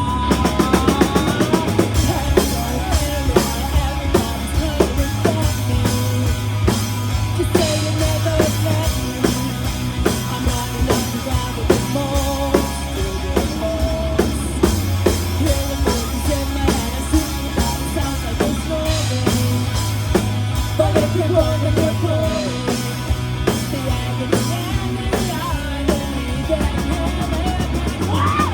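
Live rock band playing an instrumental passage: a steady drum-kit beat with kick drum, a bass line, and a melodic lead line over the top.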